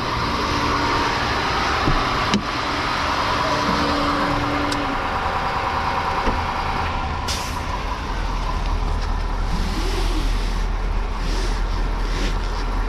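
Tow truck running and pulling away, a steady engine and road noise, with a deeper low rumble coming in about eight seconds in. A sharp click sounds about two seconds in.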